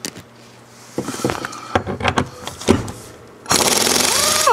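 Metal knocks and clanks of tools on the seat bolts, then a power wrench runs hard for about a second and winds down with a falling whine, driving out a seat-mounting bolt that breaks off.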